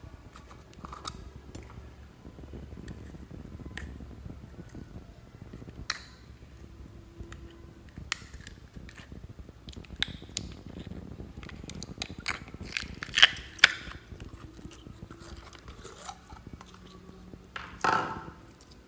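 Slime being squished and kneaded by hand, with scattered sticky clicks and pops. Two sharp pops come about two-thirds of the way through, and a louder crackling squelch comes near the end.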